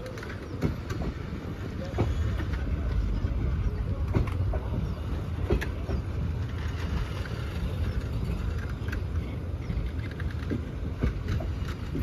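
Indian Railways passenger train rolling past with a steady low rumble and irregular sharp clicks of wheels over rail joints.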